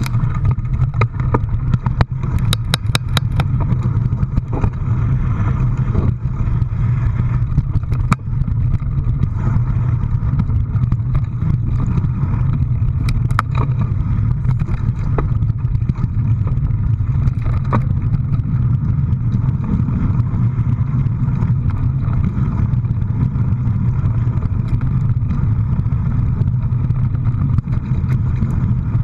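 A motor vehicle's engine running steadily as a loud low drone, with scattered clicks and rattles, a burst of them about two to three seconds in.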